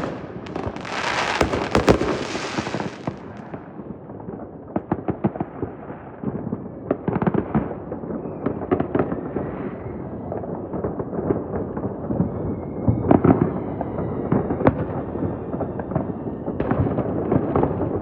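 Fireworks going off in rapid, irregular succession: many overlapping bangs and pops, with a loud hissing crackle during the first few seconds and louder volleys of bangs about two-thirds of the way through and near the end.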